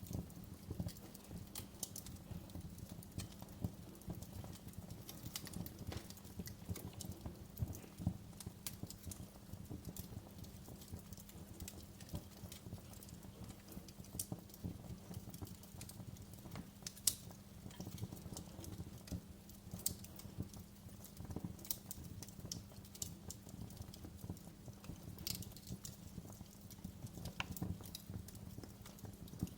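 Wood fire crackling in a fireplace: frequent sharp pops and snaps over a low steady rumble, with one louder pop about seventeen seconds in.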